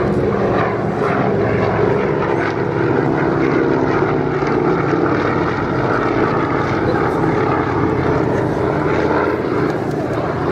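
Propeller-driven piston-engined aircraft flying a display pass, a steady engine drone.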